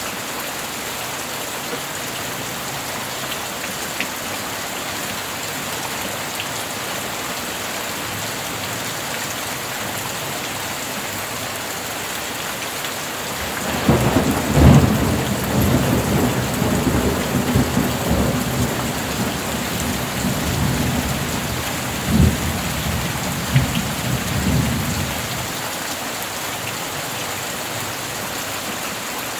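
Steady rain falling. About halfway through, a long low roll of thunder builds over it and lasts some twelve seconds, with a few sharper claps inside it, then fades back to the rain alone.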